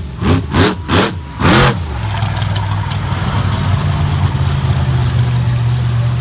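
Walking Tall monster truck's engine revved sharply several times in quick succession, then settling to a steady idle about two seconds in.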